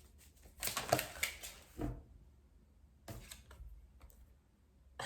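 Tarot cards being shuffled and handled in a few short bursts of rustling and clicking, with a light knock about two seconds in.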